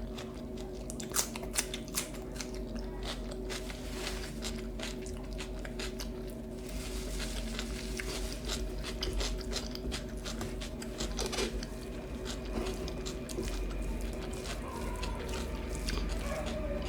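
Close-miked eating: irregular biting, crunching and wet chewing sounds of a person eating with their hands, over a steady low background hum.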